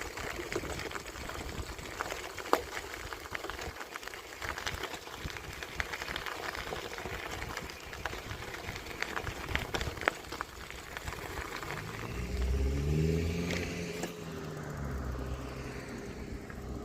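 Steady rolling and wind noise with scattered sharp clicks as a bicycle rides along. About twelve seconds in, a motor vehicle's engine comes in, rises in pitch, and then runs on steadily. It is loudest just after it starts.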